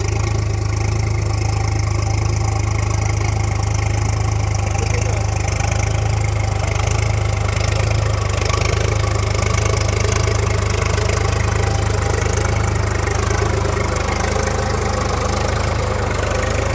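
Preet 50 HP tractor's diesel engine running steadily with a deep, even drone, working under load pulling a plough.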